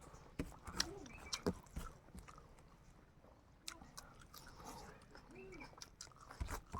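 Close-up mouth sounds of people eating cooked chicken: chewing, lip smacks and irregular sharp clicks, a few close together about a second in and a louder cluster near the end.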